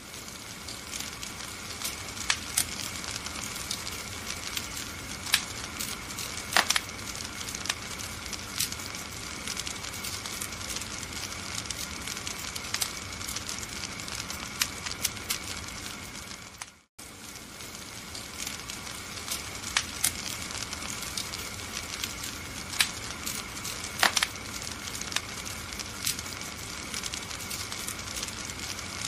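Wood fire in a fireplace crackling, with frequent sharp pops over a steady hiss. About seventeen seconds in, the sound cuts out completely for a split second, then resumes.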